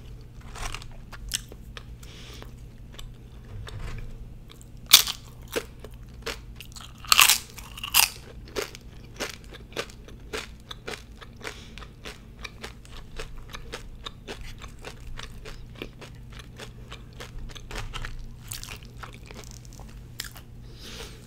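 Close-miked chewing of crisp fried tortilla: a run of sharp crunches with quieter chewing between, the loudest crunches about five, seven and eight seconds in.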